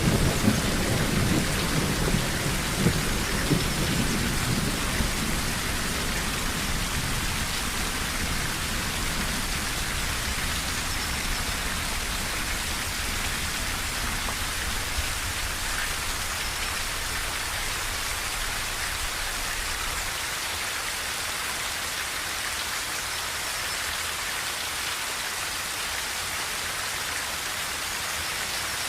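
Steady rain drumming on a tin roof. A low rumble of thunder at the start dies away over the first several seconds.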